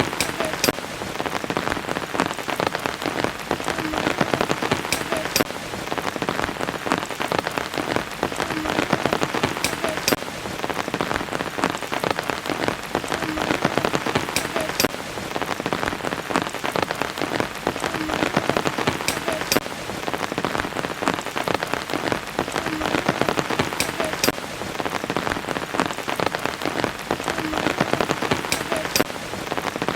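Steady rain falling: a dense patter of drops, with a few sharper drop hits that recur about every five seconds.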